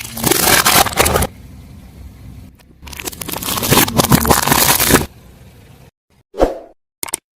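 Car tyre rolling over and crushing crunchy objects: two loud spells of crackling and crunching, one at the start lasting about a second and a longer one from about 3 to 5 seconds in, with two short faint knocks and then silence near the end.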